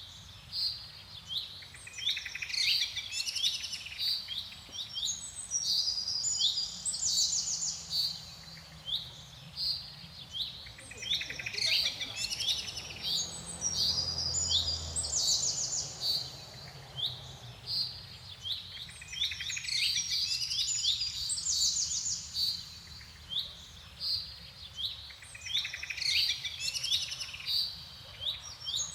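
Songbird singing in garden, repeated bouts of quick high chirps, short sweeping notes and rapid trills, a new phrase every few seconds.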